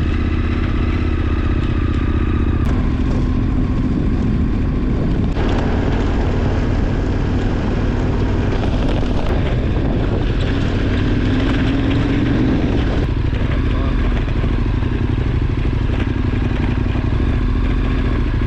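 KTM 1290 Super Adventure R's V-twin engine running under way at steady revs, its note shifting about three seconds in, again about five seconds in, and once more past halfway.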